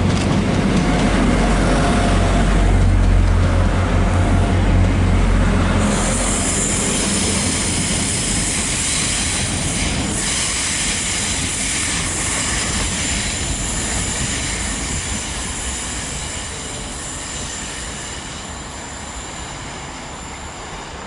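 A train running through a station. A heavy low rumble comes first, then about six seconds in a high-pitched steady wheel squeal starts, and the whole sound slowly fades as the train moves away.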